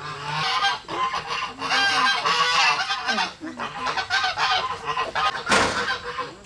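Farm fowl honking, many calls overlapping in quick succession, with a brief noisy rush near the end.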